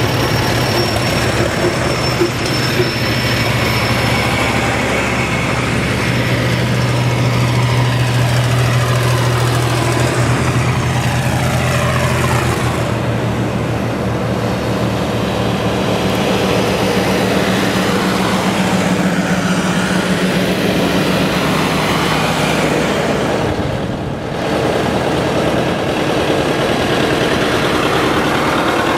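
Farm tractor engines running as tractors drive past. A low steady engine note gives way about halfway through to sliding pitches and then a higher steady note.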